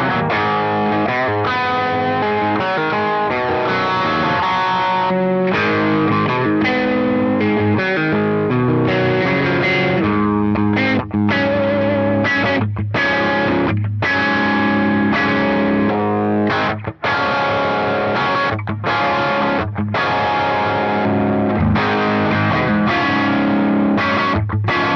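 Heavily distorted electric guitar, fitted with Hades Gates humbucker pickups, playing riffs with sustained chords broken by several brief, abrupt stops.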